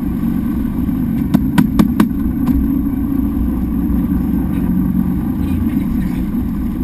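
Fishing boat's motor running steadily, with a quick run of about five sharp clicks or knocks between one and two and a half seconds in.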